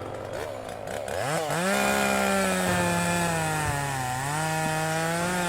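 Chainsaw engine revving up about a second in, then held at high speed, its pitch sagging slightly and climbing again near the end.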